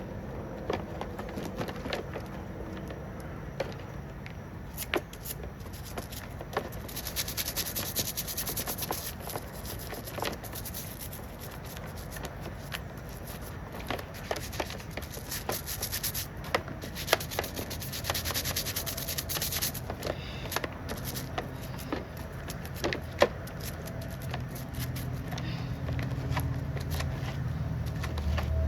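Grime being scraped and scrubbed off a soaped STIHL 020T chainsaw part, with many small clicks and knocks of tool on metal. A stretch of quick hissing scrubbing strokes runs from about 7 to 20 seconds in, and a low rumble comes up near the end.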